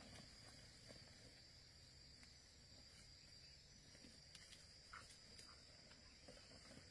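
Near silence with a faint, steady, high-pitched insect drone and a few faint ticks.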